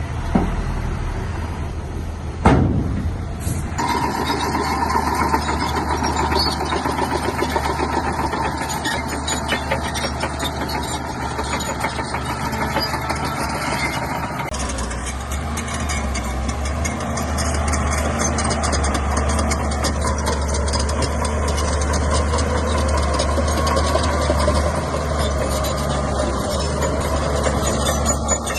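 Shantui bulldozer's diesel engine running steadily, with a loud sharp knock a couple of seconds in and a change in the engine sound at about four seconds and again about halfway through.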